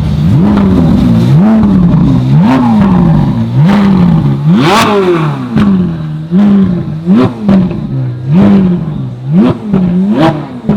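Ferrari V8 engine revved repeatedly while standing: about ten short rev blips, each rising and dropping back, the highest and loudest about halfway through.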